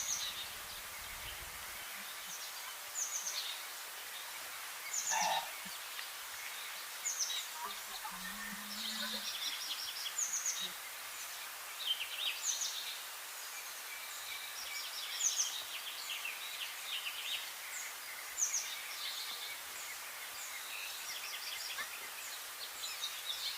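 Several birds chirping and calling in short, repeated phrases over the steady rush of a river.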